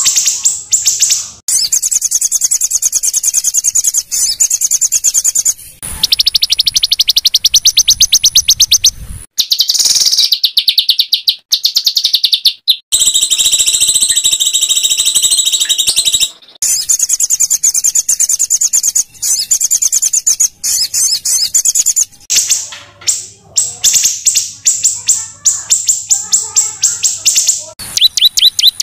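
Small songbirds' harsh, rapid-fire trills: long runs of very fast repeated high-pitched notes, broken by short pauses, with a steadier ringing trill in the middle. This is the kind of harsh 'shot' calling that bird keepers use as master recordings for training white-rumped shamas.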